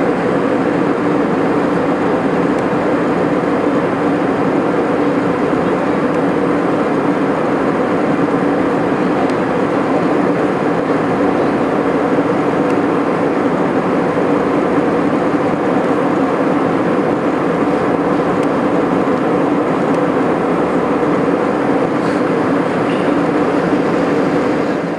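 Passenger jet cabin noise in flight: a steady loud rush of engines and airflow with a constant low hum.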